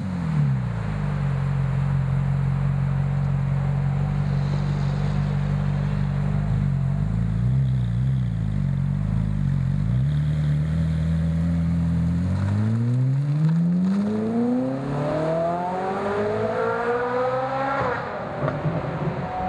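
Ferrari 458 Italia's V8 breathing through Fabspeed headers, HJS 200-cell sport cats and a Fabspeed Max Flow exhaust. It idles steadily for about twelve seconds, then revs in one smooth climb lasting about five seconds and drops sharply back toward idle near the end.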